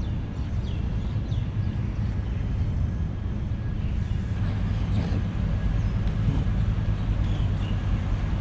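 Steady low rumble of outdoor street ambience, with a few short high chirps in the first couple of seconds and again near the end.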